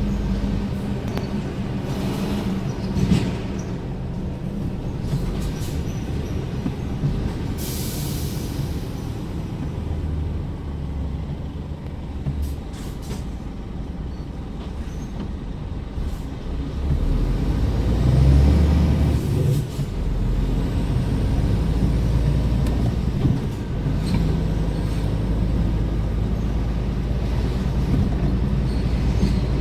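Scania R410 truck's diesel engine running steadily as the tractor unit drives, with a brief hiss of compressed air about eight seconds in. The engine grows louder for a few seconds from around seventeen seconds in, as it pulls harder.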